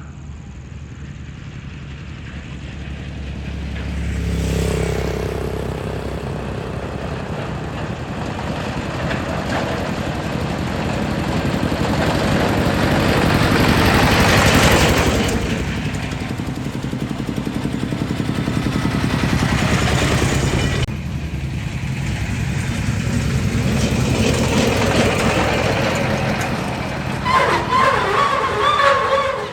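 A motor engine running, its sound swelling and easing several times, loudest about halfway through. Near the end a higher, steady-pitched sound joins it.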